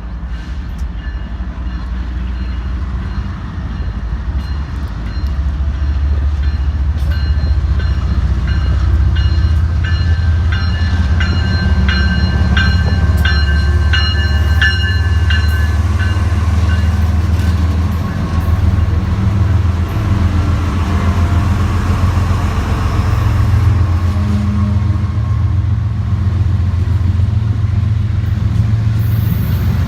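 A train running past with a low, steady rumble that grows louder over the first several seconds. From about a quarter to halfway through, a run of rapid, evenly spaced clicks comes with ringing high tones.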